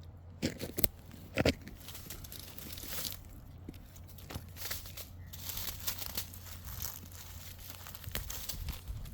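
Rustling, crackling and tearing of plant material being handled, with a few sharper snaps in the first second and a half, over a steady low hum.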